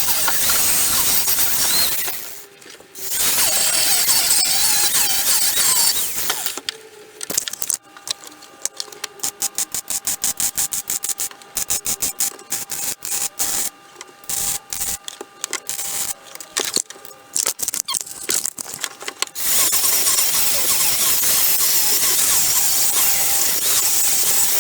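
MIG welder crackling as it welds steel car bodywork: steady runs at the start and end, with a long stretch of rapid stop-start stitches in the middle.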